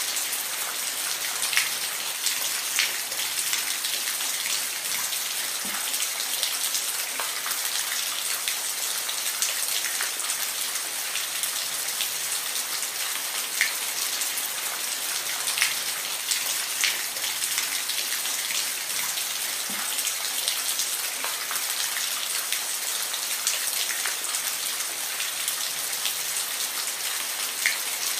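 Steady rain: an even hiss of falling rain with scattered single drops ticking louder here and there.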